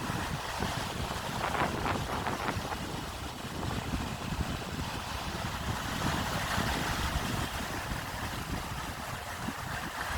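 Wind buffeting the microphone with a low, uneven rumble over the steady wash of sea waves.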